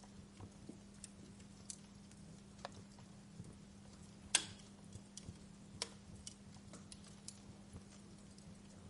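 Wood fire crackling: irregular sharp pops and snaps over a faint steady hum, the loudest pop about four and a half seconds in.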